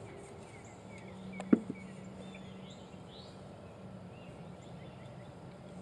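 Quiet outdoor background with a low steady hum and faint bird chirps, broken by a single sharp knock about a second and a half in.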